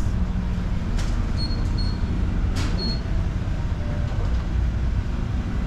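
Steady low drone of a large ferry's machinery heard inside the ship. Two sharp clicks about one and two and a half seconds in, and three short high electronic beeps between and after them.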